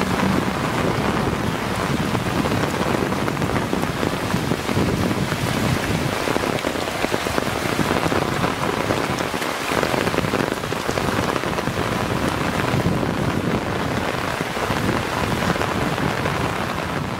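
Heavy rain pouring down: a steady, dense hiss of downpour.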